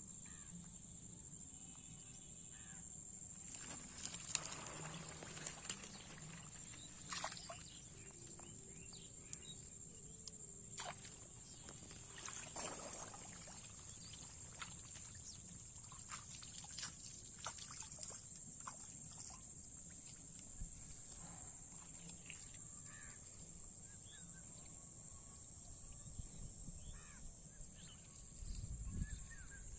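Outdoor rural ambience dominated by a steady, high-pitched insect drone, with scattered short clicks and knocks.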